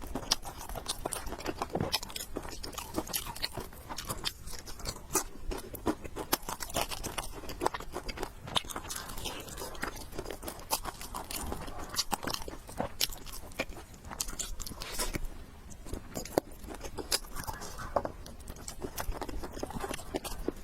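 Close-miked eating sounds: a person chewing and biting food, a dense, irregular run of small crunchy, wet clicks.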